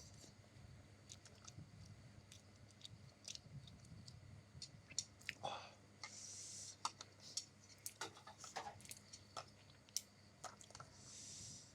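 Faint close-up sounds of someone eating egg noodles: chewing with scattered small clicks, and a couple of longer airy sounds, one about six seconds in and one near the end.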